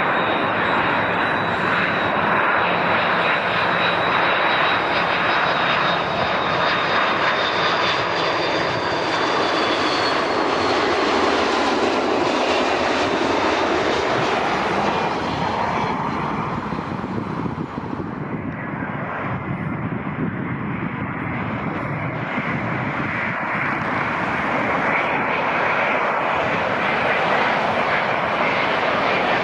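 Twin-engine jet airliners on approach: an Airbus A330's engines running, with a high fan whine that falls slightly in pitch. After a brief dip about two-thirds of the way through, a second jet follows, an Airbus A350 with Rolls-Royce Trent XWB engines, its noise building with a steady whine.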